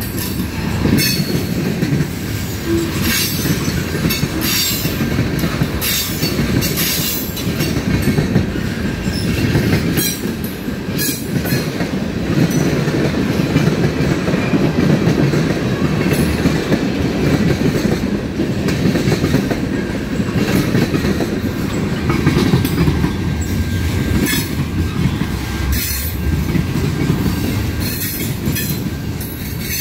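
Railroad cars rolling past: a steady low rumble of the train, with irregular clicks from the wheels over the rails.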